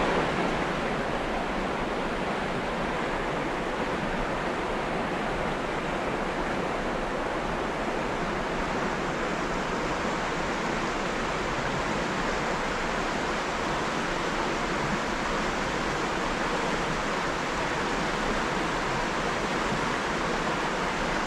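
Small river running over shallows, a steady rushing of water that does not change.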